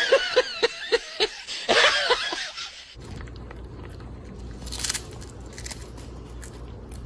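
A person laughing in short repeated bursts, cut off about three seconds in. After that comes a low steady hum with faint scattered clicks and a brief rustle near the five-second mark.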